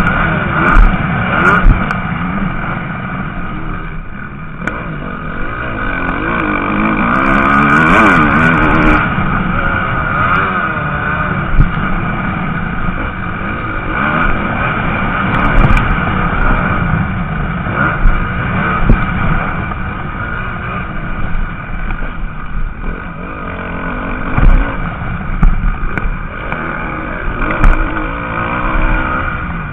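MX2 motocross bikes racing round the track, their engines revving up and down through the gears as they pass. Several engines overlap, and the loudest pass comes about eight seconds in.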